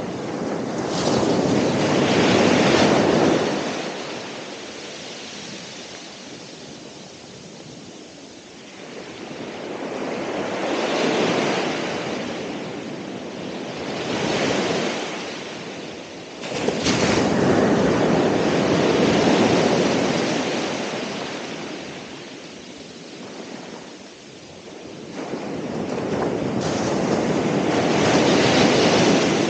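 Ocean waves breaking on the shore in surges that swell and fade every few seconds, with one sharper crash about two-thirds of the way through.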